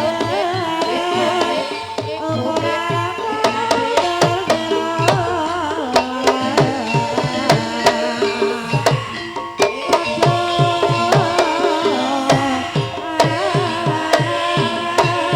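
Gamelan accompaniment for an ebeg horse dance: kendang hand-drum strokes in a busy pattern under struck metal keys and a singing voice with wavering, ornamented lines.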